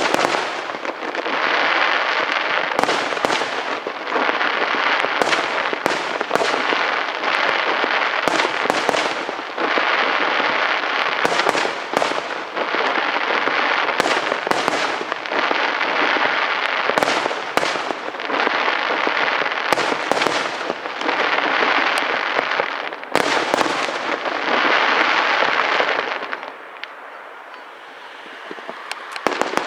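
Fireworks display: a dense, continuous crackle with many sharp bangs going off throughout. About three seconds before the end it thins out to a quieter crackle, with a last few bangs near the end.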